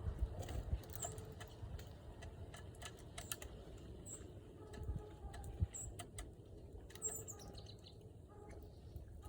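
Small birds giving short, high chirps a handful of times, with scattered sharp clicks and taps among them.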